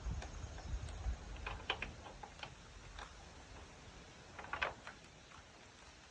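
Light metallic clicks and rattles of small door hardware being handled, in two short clusters, with a low rumble in the first second.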